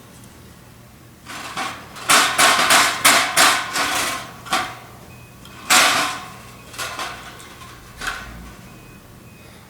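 Hard parts knocking and clattering together: a quick run of sharp knocks, then a few single knocks.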